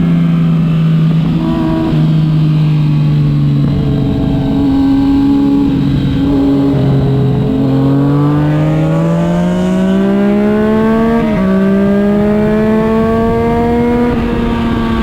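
Motorcycle engine under way, its pitch easing off through the first half, then climbing for several seconds as it accelerates, dropping abruptly about two-thirds of the way in as it shifts up a gear, and climbing again.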